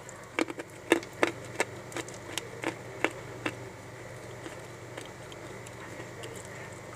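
Dry edible clay crunching as it is bitten and chewed: a quick run of sharp crunches in the first three seconds or so, then only a few faint ones.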